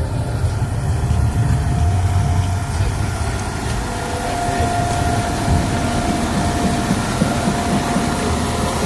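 Heavy truck engine running with a low rumble and a thin steady whine that grows clearer about halfway through.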